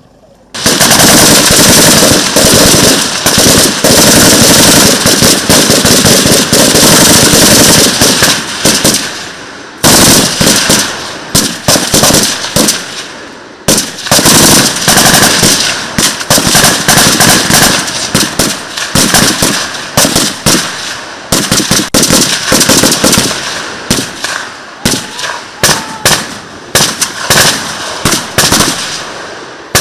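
Loud automatic gunfire that starts suddenly about half a second in. It is almost continuous for the first nine seconds, breaks off briefly twice, and then goes on as shorter bursts and separate shots.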